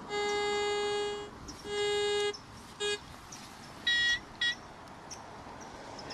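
Metal detector target signals: two long low-pitched tones and a short one, then, about a second later, two short high-pitched beeps.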